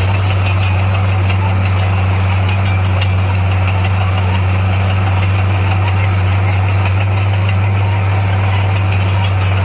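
Heavy-equipment diesel engine running steadily at constant speed: a low, unchanging hum.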